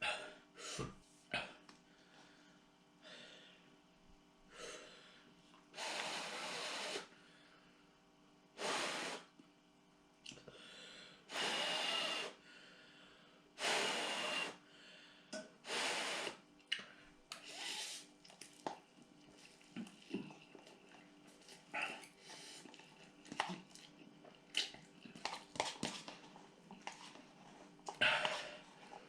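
A person breathing hard and sniffing, drawing air in with a hiss in bursts of about a second, with shorter sniffs and small mouth clicks between: a reaction to the burn of very spicy noodles, with a runny nose.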